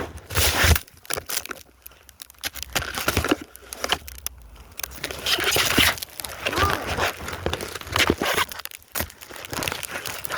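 Rough handling noise on a phone's own microphone as it is thrown about in snow: rustling, scraping and crunching with repeated knocks and thumps.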